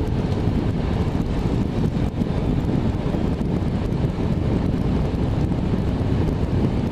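Steady rumble of airflow and engines inside a Boeing 767 cockpit on approach.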